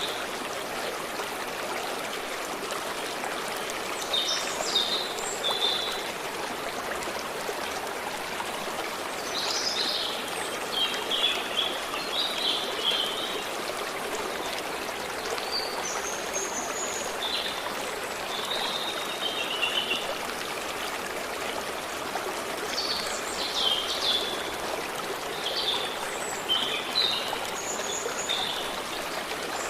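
A stream running steadily, with small birds singing short high chirping phrases over it every few seconds.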